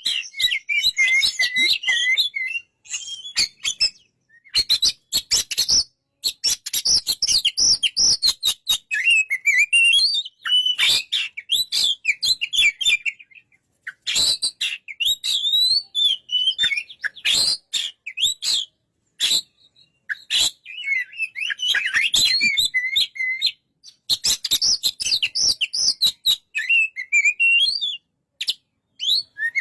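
Oriental magpie-robin (kacer) singing: fast, varied whistled phrases in bursts of a few seconds, broken by short pauses and studded with sharp clicking notes.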